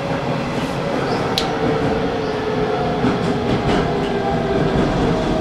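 Hanshin Railway local electric train running on the line, with a steady hum from the traction motors over the rumble of wheels on rails and a single sharp click about a second in.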